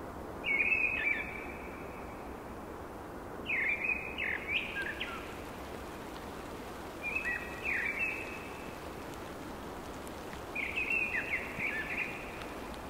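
A songbird sings four short phrases of quick falling notes, about three and a half seconds apart, over a steady outdoor rushing noise.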